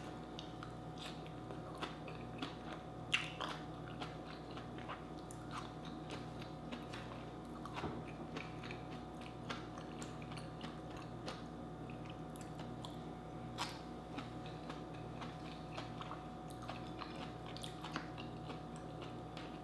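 Close-miked mouth sounds of someone chewing and biting soft cooked vegetables (sweet potato leaves and okra), with scattered small wet clicks over a faint steady hum.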